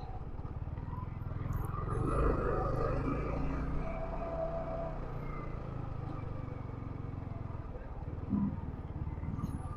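Yamaha R15 V3's single-cylinder engine running steadily under a haze of wind and road noise, with a brief steady tone about four seconds in.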